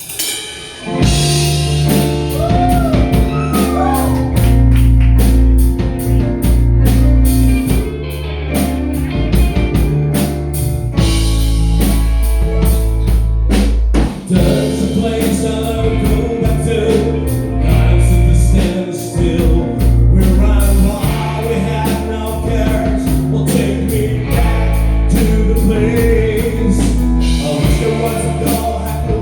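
Rock song played by a band with drums, bass and guitar, and a male voice singing over it.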